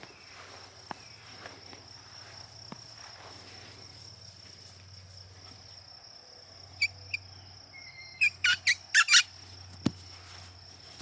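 Steady high-pitched insect trilling, like crickets. Partway through come two short sharp chirps, then near the end a quick run of about six loud chirps and a single sharp click.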